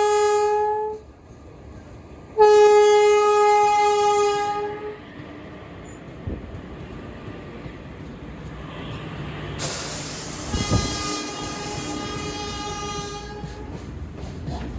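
Indian Railways train horn sounding two long blasts, the first cutting off about a second in and the second held for about two seconds, followed by a train rolling past with a steady rumble, a few wheel knocks and a rushing noise, and a fainter horn near the end.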